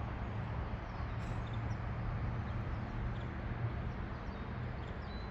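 Steady low outdoor background rumble with a few faint, brief bird chirps.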